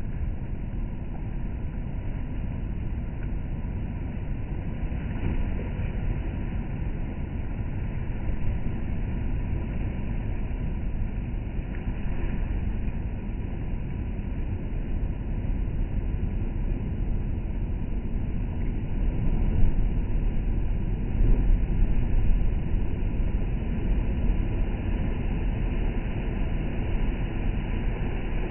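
Stormy sea surf breaking on the shore, a steady low rumbling wash with louder surges about two-thirds of the way through.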